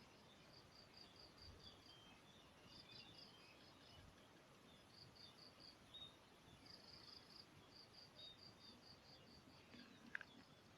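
Faint field insects chirping in short trains of even high pulses, about five a second, with scattered small bird chirps and one brief sharp tick near the end.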